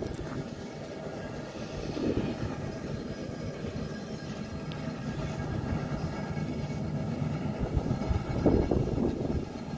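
Mount Washington Cog Railway train running steadily as it climbs the steep rack track, with two brief louder swells, one about two seconds in and one near the end.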